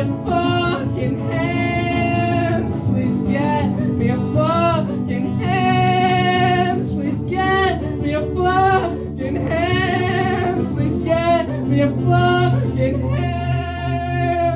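Live rock band playing, with a singer holding long, wavering notes in phrases over guitar and a steady low bass.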